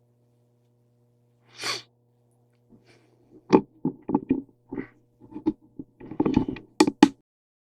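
A steady low hum, a short hiss, then a run of irregular knocks and bumps over the hum, all cutting off suddenly near the end.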